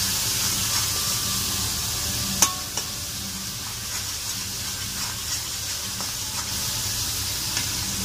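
Ginger-garlic paste and ground spices frying in hot oil in a metal kadai, sizzling steadily while a metal ladle stirs and scrapes through the masala with light clinks. One sharp, ringing clink of the ladle against the pan comes about two and a half seconds in.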